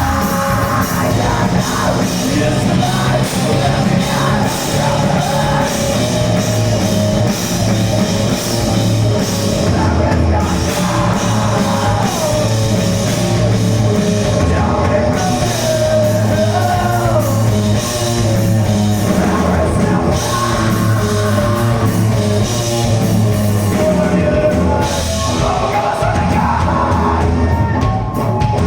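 Loud heavy rock music from a band, with drum kit, bass and a singing voice.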